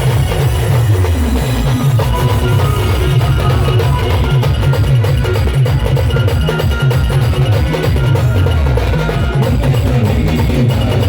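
Loud band music: a fast, heavy drum beat with strong bass under a sustained melody line.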